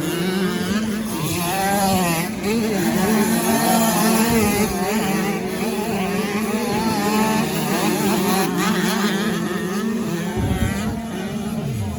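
Several 85 cc two-stroke motocross bike engines running together, their pitches rising and falling as the riders rev up and back off.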